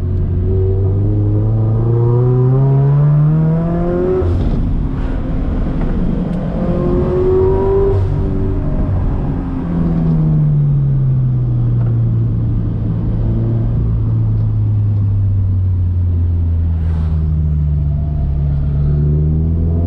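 Turbocharged Scion FR-S's flat-four engine under way. The pitch climbs for about four seconds, drops off briefly and climbs again, then falls as the car slows. It holds steady for a while and starts climbing again near the end.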